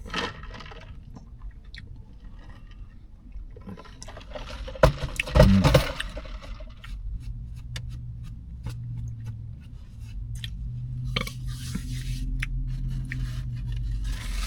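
Close-miked chewing of a toasted sub sandwich: wet mouth clicks and crunching, with a louder burst of handling noise about five seconds in.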